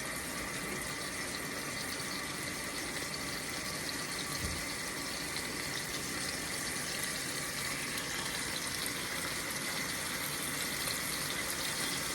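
Pieces of duck sizzling steadily in hot oil in a frying pan as they sear.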